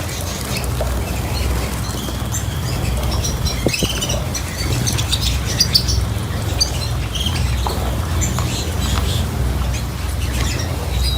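Cage birds chirping in short, scattered calls over a steady low rumble.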